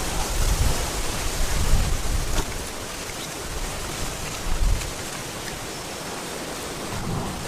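An erupting Kilauea lava fissure: a steady rushing hiss with low rumbling surges in the first couple of seconds and again past the middle, and a few faint crackles.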